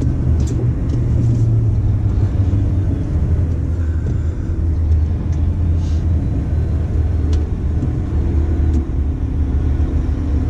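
Dump truck's diesel engine running with a steady low drone and road rumble, heard from inside the cab.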